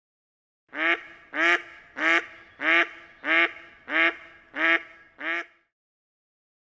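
A bird gives a series of eight harsh, evenly spaced calls, about one and a half a second, and then stops.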